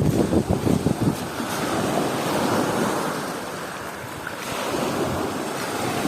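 Ocean waves washing onto a beach, a steady wash that swells and eases. Wind buffets the microphone with low gusts during the first second or so.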